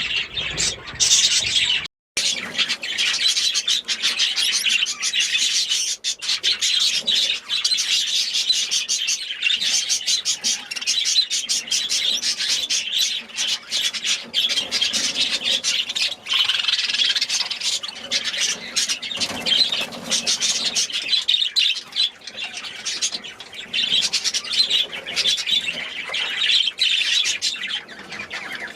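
A room of cage birds chattering, chirping and squawking continuously, many short calls overlapping, with a brief break about two seconds in.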